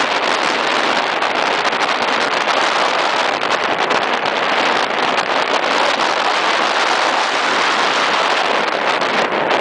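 Steady, loud rushing of wind and water aboard a maxi racing yacht under sail, with wind buffeting the microphone.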